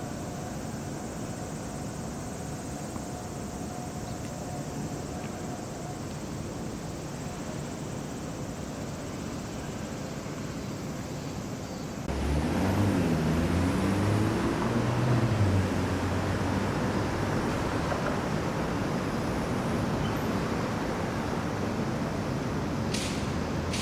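Road vehicles on a street, their engines running over steady traffic noise. About halfway it suddenly gets louder, with engine notes rising and falling as vehicles move off or pass.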